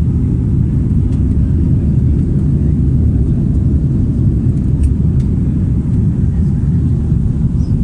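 Steady low rumble of an Airbus A330-300's engines and rushing air, heard from inside the passenger cabin.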